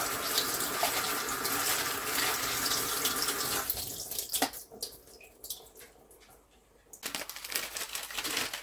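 Kitchen tap running while onion skins are rinsed under it, then shut off about four seconds in. A few light clicks follow, then handling and rustling noises near the end.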